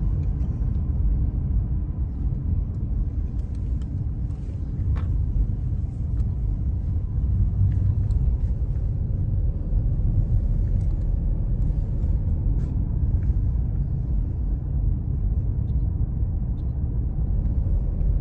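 A car driving along a road: a steady low rumble of engine and tyre noise, with a few faint clicks.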